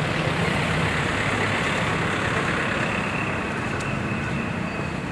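Steady city street traffic noise: vehicle engines running with a low hum under a constant rush of road noise.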